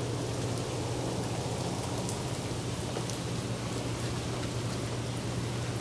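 Rain falling steadily, with scattered drop ticks, over a steady low hum.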